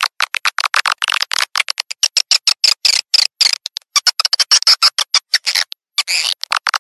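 Recorded calls of edible-nest swiftlets: dense, rapid twittering chirps, many a second, with a short pause about six seconds in. This is a swiftlet call track, played in swiftlet houses to lure the birds in.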